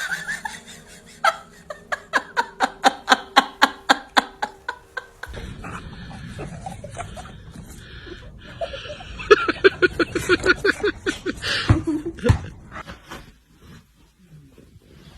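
Laughter in two bouts of quick, evenly repeated ha-ha pulses, the first lasting a few seconds and the second coming about halfway through.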